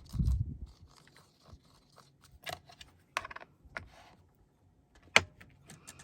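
Paper and card being handled on a craft table: a low thump at the start, then scattered crinkles and clicks, with one sharp tap about five seconds in.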